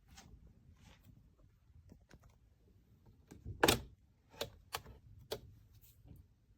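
A series of clicks and knocks from something being handled: a few faint ones, then a louder knock a little past halfway, followed by three sharp clicks about half a second apart.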